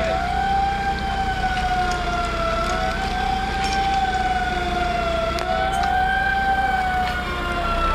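Emergency vehicle siren sounding continuously, its pitch slowly wavering up and down every few seconds, over a steady low engine rumble.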